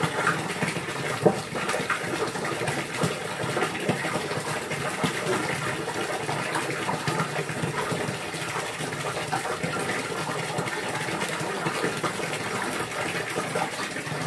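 Running water rushing and splashing steadily, with small irregular clicks and splashes.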